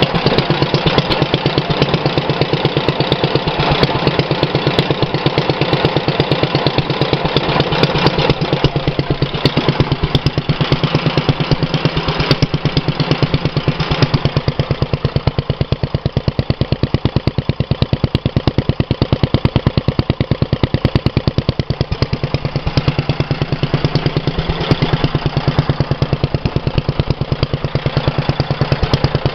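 Petter A1 single-cylinder stationary engine running steadily, with a rapid, even train of exhaust beats. It runs a little rough after standing unused for many years, and the owner expects slight tuning to smooth it.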